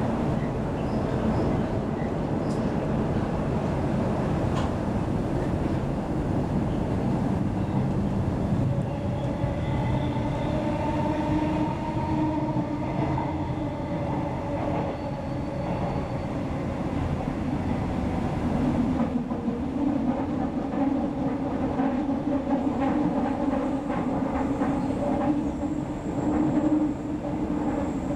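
Queensland Rail electric train in motion, heard from inside the carriage: a steady rumble of the wheels on the track, a humming tone coming in about nine seconds in, and occasional clicks of the wheels over the rails.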